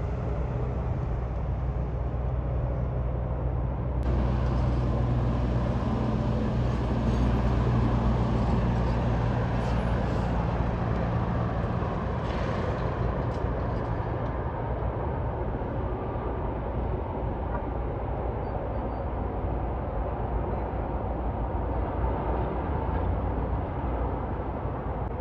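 Road vehicle noise: a steady low engine drone with tyre and road noise, growing louder about four seconds in and easing off again after about fourteen seconds.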